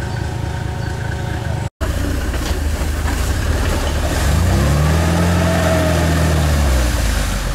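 Off-road vehicle engine running, then after a cut a LuAZ-969 Volynets engine revs up under load in mud, holds high revs for about two seconds and drops back near the end.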